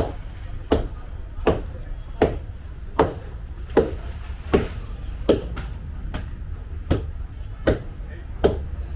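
Fufu of cassava, plantain and yam being pounded in a wooden mortar with a wooden pestle: a steady rhythm of dull thuds, about one every three-quarters of a second.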